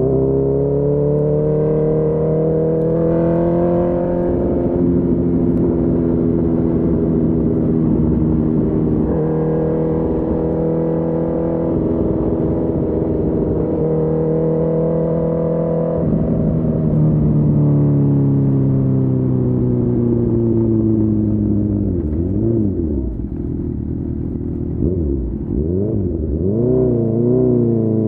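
2019 Honda CB1000R's inline-four engine with a full Akrapovic exhaust, heard while riding. It revs up and changes gear about four seconds in, then holds steady revs. Past the middle it drops, with the pitch falling off as the bike slows. Near the end the revs waver up and down at low speed before picking up again.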